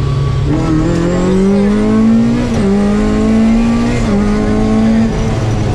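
Toyota Corolla AE86's twin-cam four-cylinder engine revving hard under acceleration, heard from inside the cockpit. The note climbs, dips briefly with quick upshifts about two and a half and four seconds in, climbs again, then drops away about five seconds in.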